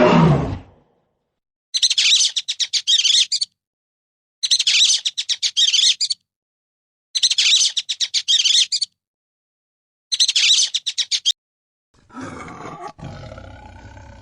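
A bird calling in four bursts of rapid high-pitched chirps, each about a second and a half long, with pauses of about a second between them. A deep roar fades out just before the first burst, and a lower, pitched animal call starts near the end.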